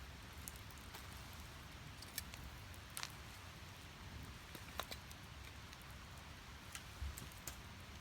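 Split firewood burning in a fire pit: a steady low rush of flames with sharp crackles and pops every second or so, the loudest a few seconds in.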